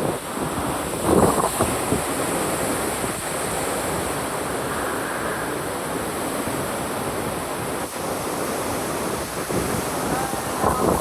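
Hurricane wind blowing hard and steadily, with stronger gusts buffeting the microphone about a second in and again near the end.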